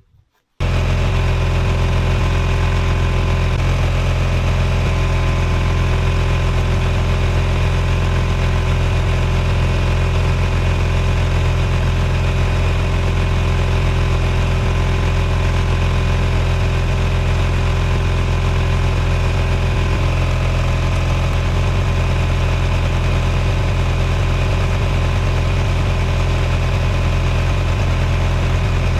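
An engine idling steadily with a deep, even hum, coming in abruptly about half a second in.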